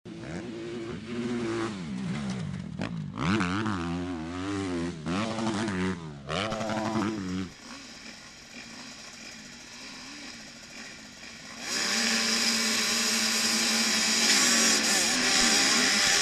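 Motocross bikes on the starting line, engines revving up and down in quick blips. About halfway through the revving drops back to a quieter, steadier note. Then, a few seconds before the end, the whole field opens up to full throttle at once, loud and steady: the start of the race.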